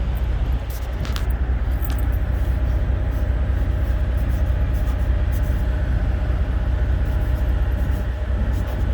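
Semi truck's diesel engine idling, a steady low rumble, with a couple of faint clicks about one and two seconds in.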